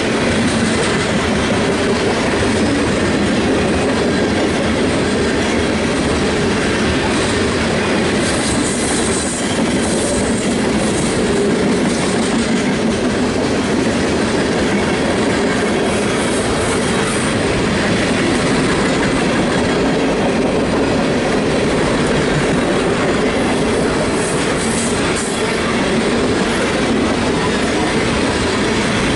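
Freight train cars rolling past, wheels clattering over the rails, with brief high squeals from the wheels a few times.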